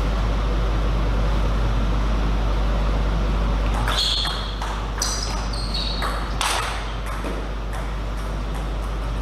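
Table tennis rally: a celluloid ball struck back and forth, with sharp pinging clicks off the paddles and table about two a second, starting about four seconds in, over a steady low hum.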